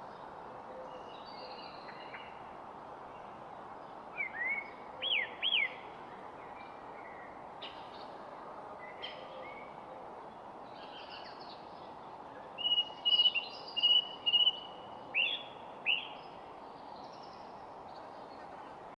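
Wild birds calling over a steady background hiss: a few quick arching chirps about four to six seconds in, then a louder run of chirps and a held whistled note in the second half.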